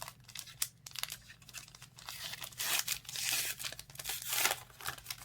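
Trading card pack wrapper being torn open and crinkled, with scattered crackles and a louder stretch of tearing about three seconds in.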